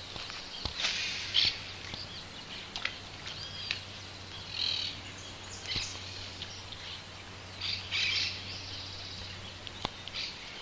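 Wild birds chirping and calling in short, high bursts every second or two over a faint steady low hum, with an occasional light click.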